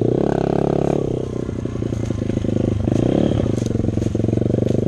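Dirt bike engine running under load, revving up in the first second, dropping back, then rising again about three seconds in.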